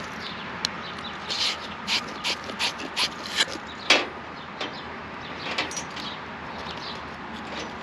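Hands working copper pipe and fittings: irregular clicks, knocks and short scraping strokes, with one sharper knock about four seconds in.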